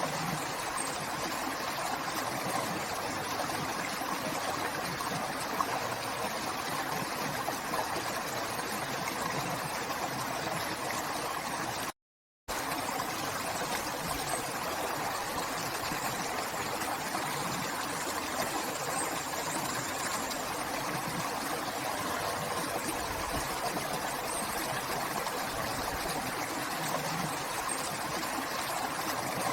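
River flowing: a steady rush of running water. The sound drops out to silence for about half a second around twelve seconds in.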